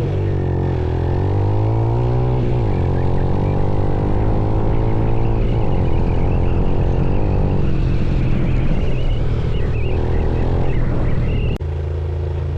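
Motorcycle engine running under way, its note rising and then dropping back several times as the rider shifts gears. Near the end the sound breaks off abruptly and carries on at a lower, steadier note.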